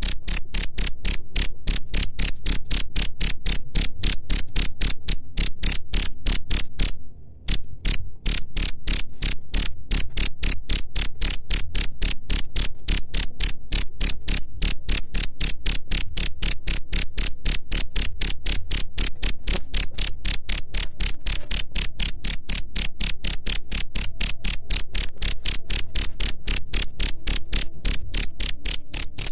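A cricket chirping in a steady, even rhythm of about three to four chirps a second on one high pitch, with a brief break of about a second some seven seconds in.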